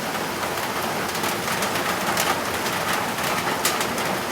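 Steady rain falling, an even hiss with scattered louder drip taps.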